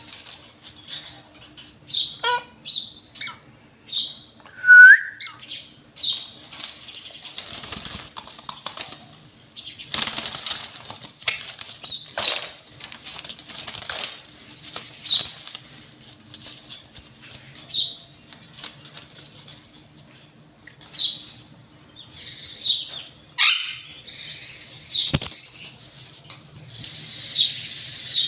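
Caged parrots calling with many short, shrill chirps and squawks, mixed with long stretches of wing flapping and rustling. The loudest sound is a single rising call about five seconds in.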